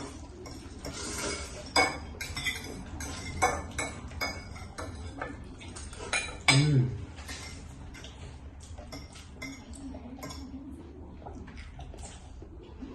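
Eating utensils repeatedly clicking, tapping and scraping against a tray of dry instant noodles as the noodles are eaten. A brief, louder, lower sound comes about six and a half seconds in.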